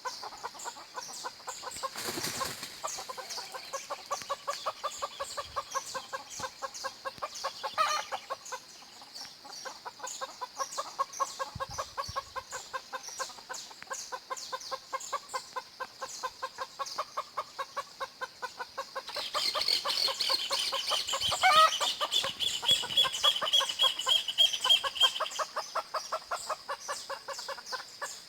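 Chickens clucking steadily, with other birds singing. About two-thirds of the way in a louder stretch of birdsong begins, holding a steady high trill for some six seconds.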